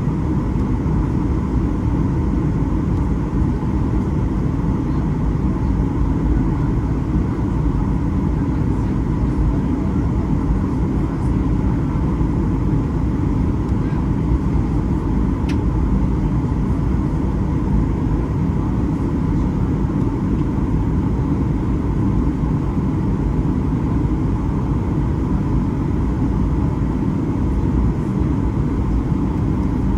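Steady cabin noise inside a Boeing 737-800 airliner: a constant deep rumble of engines and airflow with a faint steady hum, unchanging throughout.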